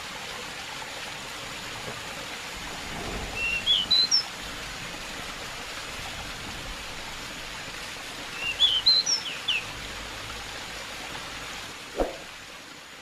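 Pied bushchat song: two short phrases of quick rising chirps over a steady hiss of running water. A single sharp click comes near the end.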